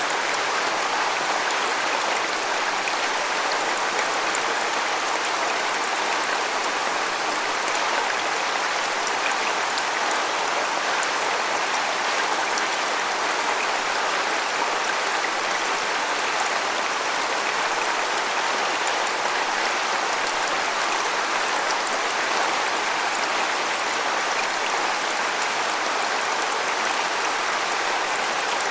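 Waterfall rushing steadily, an even splashing hiss of falling water with little deep rumble.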